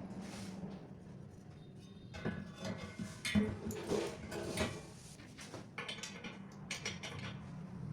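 Irregular metallic clinks and knocks, as of metal parts being handled and set down, over a low steady hum; the knocks bunch up a couple of seconds in and again near the end.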